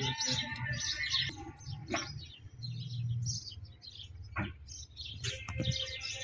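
Small birds chirping in many quick, short calls, over a low rumble.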